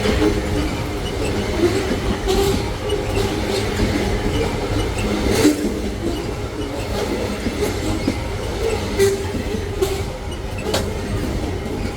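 Freight train wagons rolling past: a steady rumble with sharp clicks of the wheels over rail joints every second or so, and a wavering wheel squeal.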